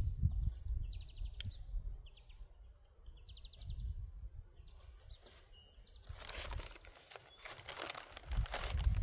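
A small bird calling over and over with short, rapid trills about once a second. From about two-thirds of the way in, a louder close crinkling and rustling takes over.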